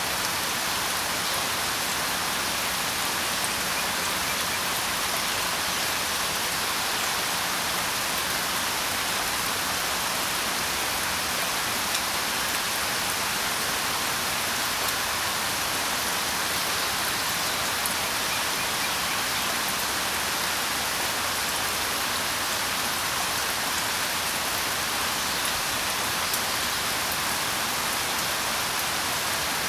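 Steady rain falling: an even, unbroken hiss with scattered drop ticks.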